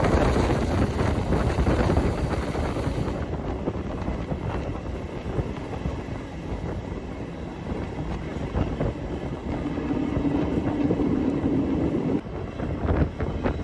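Train running along the track, a steady rumble with wind noise. A steady tone sounds for a couple of seconds past the middle.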